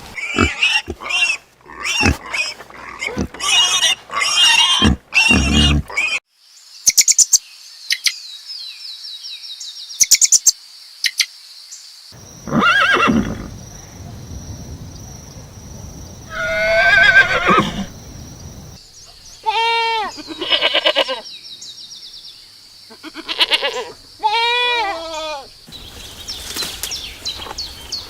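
Farm animals calling, a series of separate calls of different kinds with short gaps between them, over a steady high-pitched tone.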